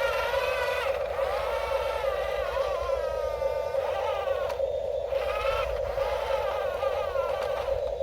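Small electric motors of radio-controlled construction toys whining: a steady buzz underneath, with a higher whine that rises and falls in pitch as the controls are worked.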